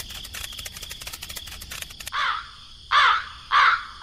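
A rapid dry ticking rattle for about two seconds, then a crow cawing three times in the second half, an added cartoon sound effect.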